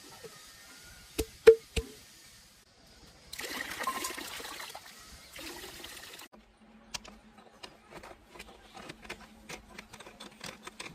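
Three sharp knocks in quick succession, then water gushing and splashing in two spurts lasting about three seconds in all. After that come many small irregular ticks over a faint steady hum.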